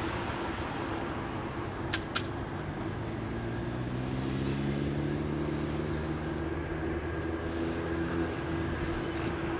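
Steady engine noise with a held tone throughout. A deeper, multi-toned engine hum swells in from about three seconds in and fades near the end, and two sharp clicks sound about two seconds in.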